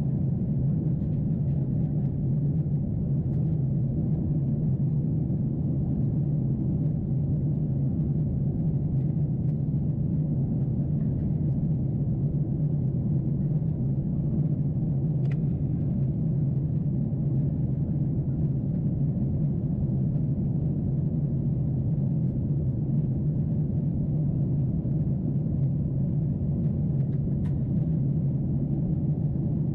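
Steady low drone inside the passenger cabin of a Boeing 747-8 in flight: the engines and airflow over the fuselage make an even rumble that holds constant.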